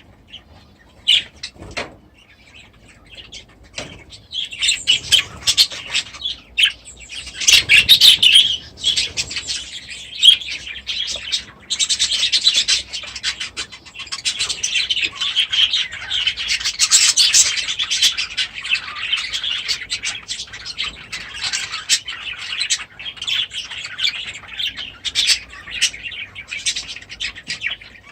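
A flock of small aviary birds chirping and chattering. A few scattered calls come first, then from about four seconds in many birds call at once in a dense, continuous chatter.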